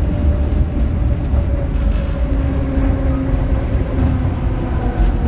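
Kintetsu 3200 series electric train running, heard from inside its motor car: steady wheel and track rumble under the whine of its early Mitsubishi GTO VVVF inverter and traction motors, the whine's tones slowly falling in pitch.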